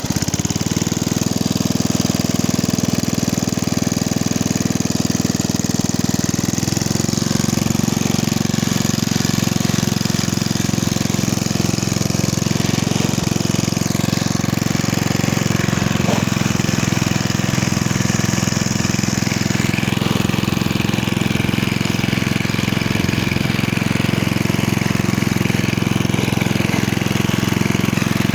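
Briggs & Stratton 5 hp I/C single-cylinder flathead engine on a 1979 Hayter Hayterette lawn mower, running steadily; its note shifts slightly about seven seconds in.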